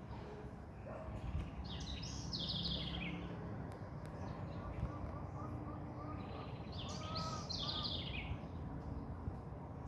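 Wild birds singing: a high, quickly descending song phrase comes twice, about five seconds apart, with a run of softer evenly spaced lower notes between them, over a steady low background rumble.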